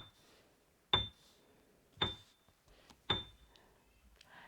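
Sharp ticks, each with a brief high ring, repeating steadily about once a second, three of them: a timer-like ticking sound effect marking the learner's turn to repeat the word.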